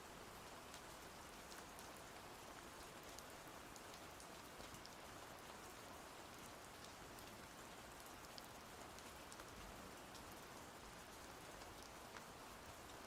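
Faint, steady rain falling, with scattered individual drops ticking.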